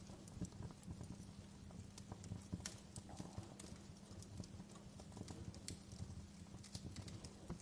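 Wood fire in a fireplace, burning with a low steady rumble and irregular crackles and pops, a few of them sharper and louder.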